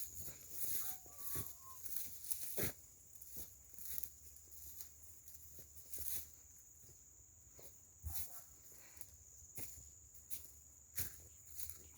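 Steady high-pitched insect drone in an oil palm forest, with scattered sharp clicks and knocks. A couple of brief faint animal calls come about a second in.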